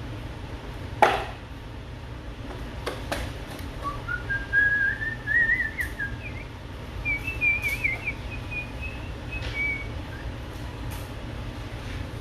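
A person whistling a short, wavering tune that climbs in pitch, starting about four seconds in and stopping near ten seconds. A sharp knock about a second in, a couple of fainter clicks, and a steady low hum underneath.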